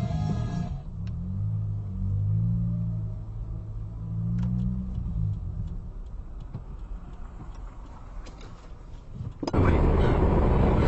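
Car engine and road rumble inside a moving car, low and steady, with the engine note rising and falling and a few faint clicks. Near the end it cuts abruptly to much louder road noise.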